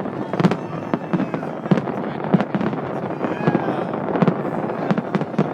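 Fireworks display going off in a rapid, continuous barrage: many sharp bangs a second with heavier booms among them, over a constant noisy crackle of smaller bursts.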